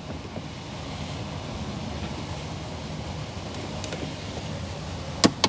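Steady low background rumble, with one sharp click near the end as the valve cover bolts are run down by hand.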